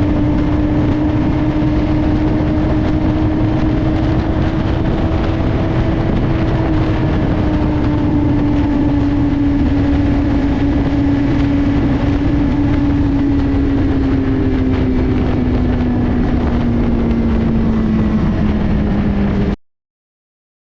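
Motorcycle engine running steadily at cruising speed under a heavy rush of wind and road noise. Its note sinks slowly lower over the last several seconds, and the sound cuts off abruptly near the end.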